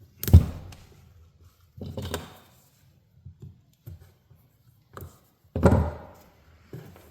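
Three dull knocks from handling tools and the cord while stripping a power cord's insulation, the first and last loudest, with a few faint clicks between.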